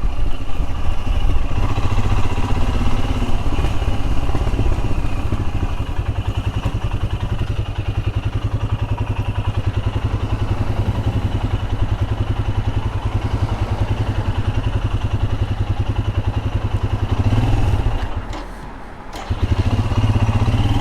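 Royal Enfield Himalayan single-cylinder engine running under way. Near the end it cuts out for about a second and then picks up again: an intermittent cut-out that the rider says happens for no apparent reason.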